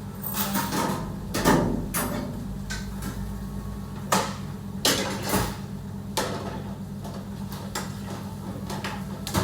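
Kitchen utensils and pans knocking and clattering at irregular intervals over a steady low hum.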